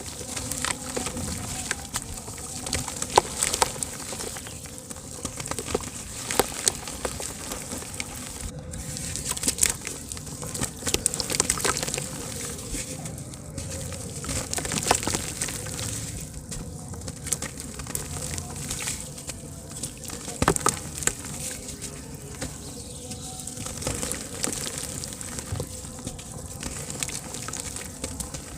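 Soft dirt chunks crumbling and dissolving in water: a continuous fizzing crackle of many tiny pops and clicks, with now and then a louder pop.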